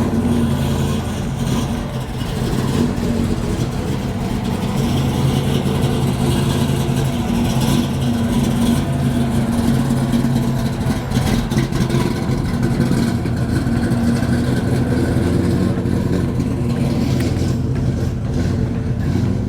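A car engine running steadily, its low note wavering slightly.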